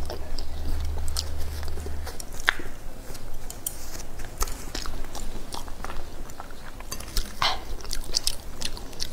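Close-miked eating sounds: chewing and biting, with irregular crisp clicks and crunches. A low hum underneath stops about two seconds in.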